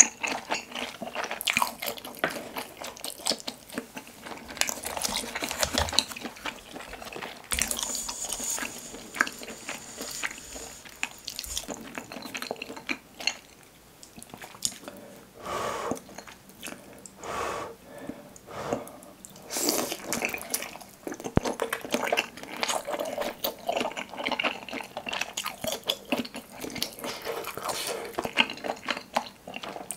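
Close-miked chewing of soft, broth-soaked Korean fish cake (eomuk), full of irregular wet mouth clicks and squelches, with drips of broth and dipping sauce between bites.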